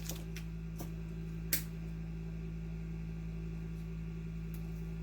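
Steady low electrical hum with a few faint clicks and taps from handling the wires and terminals, one a little louder about a second and a half in.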